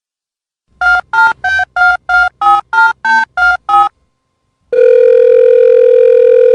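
Telephone keypad dialing: about ten short two-tone touch-tone beeps in quick succession, each key a different pair of tones. After a pause comes a steady telephone tone lasting about two seconds.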